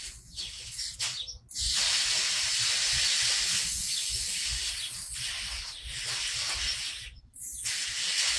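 Water spraying from a watering nozzle onto plants: a steady hiss that starts about a second and a half in, stops briefly near the end and starts again.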